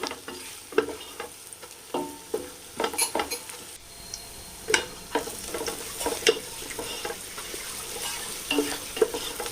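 Sliced onions frying in ghee and oil with a steady sizzle, stirred in the pan so a utensil scrapes and knocks against it at irregular moments. The onions are at the browning stage.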